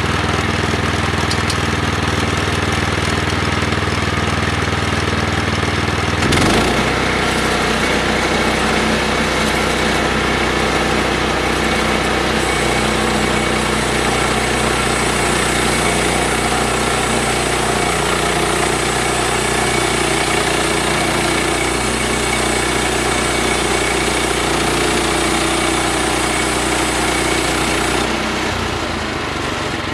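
Sawmill engine running steadily, its note shifting about six seconds in. A high hiss joins it from about twelve seconds until near the end, consistent with the saw cutting a 6x6 timber.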